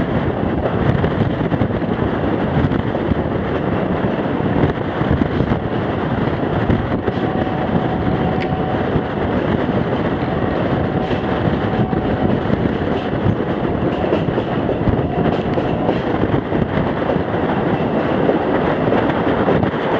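Passenger train coach running steadily on the rails behind a steam locomotive: a continuous rumble and rattle of wheels on track.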